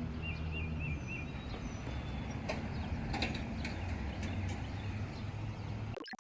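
Outdoor ambience: a few short bird calls, one warbling and a couple of thin whistles, over steady background noise and a low hum that fades about a second in, with a few sharp clicks in the middle.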